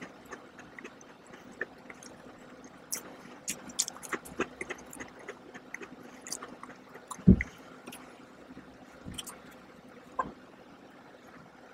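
Close-miked chewing with many small wet mouth clicks scattered throughout. A single low thump about seven seconds in is the loudest sound, with a lighter knock about ten seconds in.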